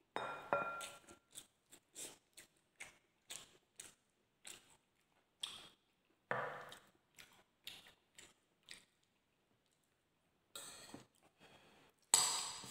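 Close-miked chewing and lip-smacking of a person eating rice and chorizo: a run of short wet mouth clicks about two a second, a pause, then a louder spoon scrape in the rice bowl near the end.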